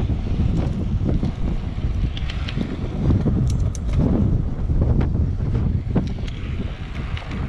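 Wind buffeting the camera's microphone while riding a road bike at speed: a loud, unsteady low rumble throughout, with a few brief sharp ticks over it, the clearest about halfway through.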